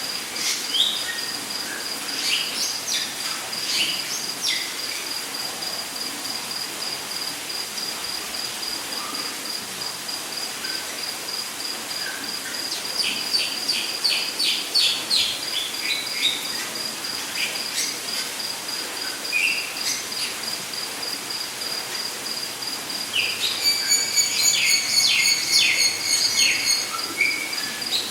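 Rainforest ambience: a steady high-pitched insect trill with assorted bird calls over it, a run of quick repeated notes about halfway, and a louder series of repeated calls near the end.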